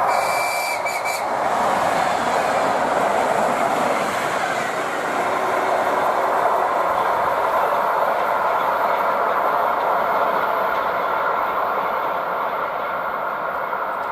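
ER2 electric multiple unit passing at speed: a steady, loud rush of wheel and rail noise that eases slightly near the end.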